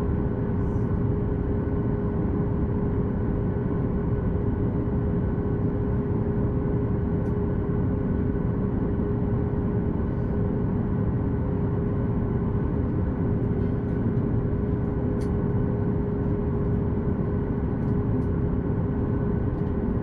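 Steady cabin noise inside a Boeing 737 MAX 8 with its CFM LEAP-1B engines at idle while taxiing after landing: an even low rumble with a constant hum, broken only by a few faint clicks.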